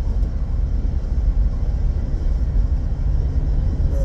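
Small car driving on the road, heard from inside the cabin: a steady low rumble of engine and road noise.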